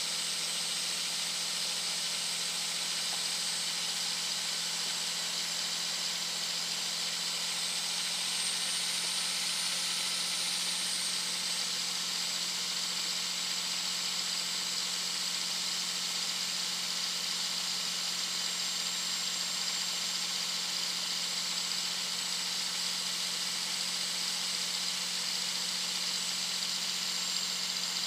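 2001 Dodge Ram 2500's Cummins 5.9-litre inline-six turbo diesel at highway speed, its turbocharger giving a loud, high whistle over the steady engine drone and road hiss. The whistle rises a little about eight seconds in, then settles back.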